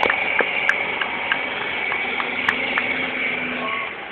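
Truck engine running steadily, with scattered sharp clicks and knocks over it. The sound drops in level near the end.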